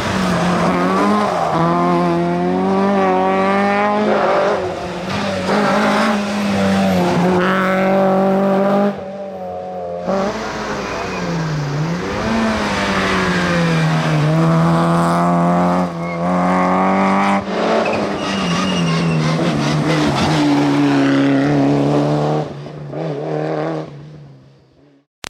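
Rally car engines running hard at high revs, the pitch climbing and dropping again and again with gear changes and lifts off the throttle. The sound fades away near the end.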